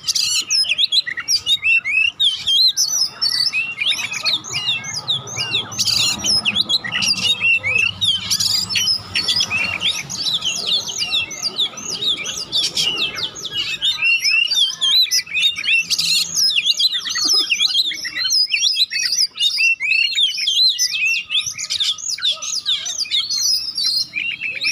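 Oriental magpie-robin singing in the fast, non-stop 'konslet' style: a dense, rapid stream of high chirps and trills with hardly a pause.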